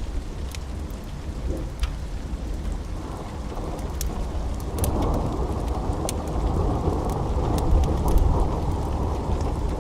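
Steady rain with a deep rumble of thunder that swells from about three seconds in, and scattered sharp pops of a crackling wood fire.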